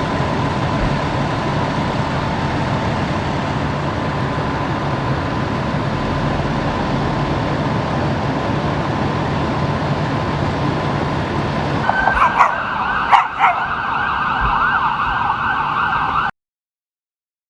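A steady rumble of idling engines and traffic. About twelve seconds in, an emergency vehicle siren starts, wavering quickly up and down, with a few sharp clicks, and then the sound cuts off abruptly.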